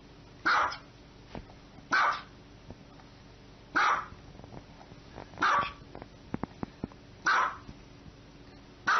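Small white dog barking: six short single barks, one every one and a half to two seconds.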